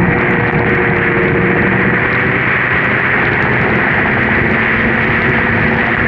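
Snowmobile engine running steadily under a thick, constant rush of noise, at a steady pitch with no change in revs.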